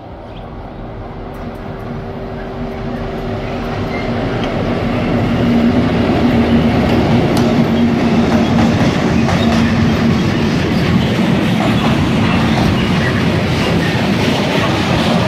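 Class 661 (EMD G16) diesel-electric locomotive approaching and passing with a freight train. The engine's drone grows louder over the first five seconds, then stays loud and steady under the running noise of the wagons' wheels on the rails.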